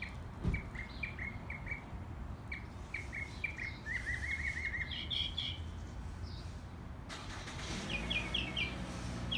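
A songbird singing a varied song: short chirps repeated in runs, a quick trill about four seconds in, then higher repeated phrases near the end.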